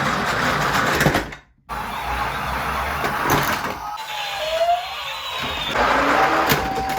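Small toy cars rolling and rattling over a hard track, with scattered clicks, a brief break about one and a half seconds in, and faint gliding tones in the second half.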